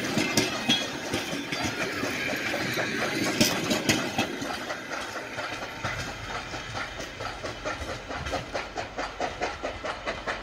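Steam-hauled passenger train passing and drawing away: coach wheels clatter over the rail joints as the cars go by, then an even rhythmic beat of a few strokes a second grows fainter as the train recedes.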